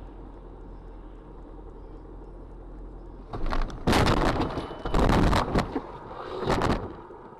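Steady low hum of a car on the road, then about three seconds in a run of loud, noisy bursts lasting some three seconds before the hum returns.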